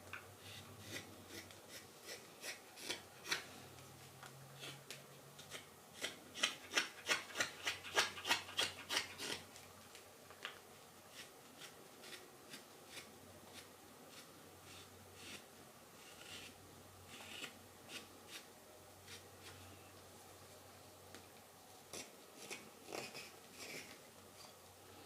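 Carving knife slicing thin shavings from a wild cherry spoon: short scraping cuts, with a quick run of about ten strokes in a row around a quarter of the way in, then more scattered cuts.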